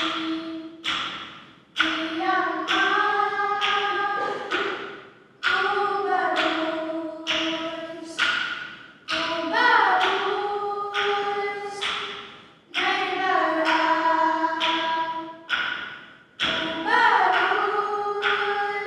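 Young women's voices singing a sustained, slow melody together, in two-part harmony. Sharp tapped strikes mark the beat every few seconds, and each is followed by a fading swell.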